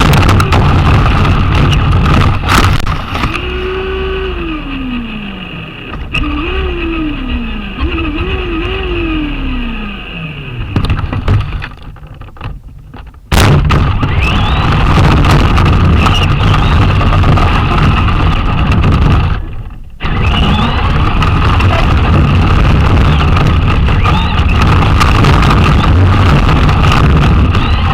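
Traxxas Slash RC truck driving, heard from a camera mounted on it: electric motor whine over loud rolling tyre and chassis noise. In the first half it eases off several times, the motor pitch falling each time. About 13 seconds in it comes back loud and runs hard, with one short dip near 20 seconds.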